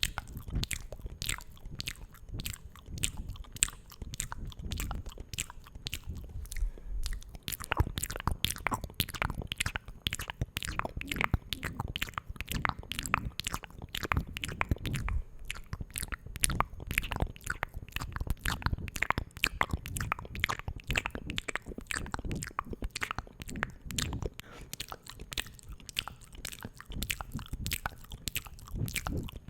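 Close-miked ASMR mouth sounds and taps: a dense, unbroken run of quick wet clicks, many a second, over soft low thumps.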